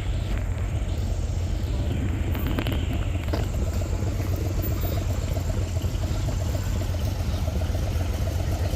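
Car engine idling: a steady low rumble with a fast, even pulse.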